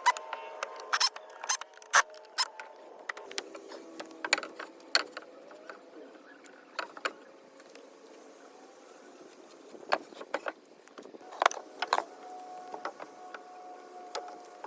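Scattered knocks, clicks and light clatter of hand work in a woodshop: lumber and tools being handled and set down, irregular and with no power tool running. A faint steady hum comes in near the end.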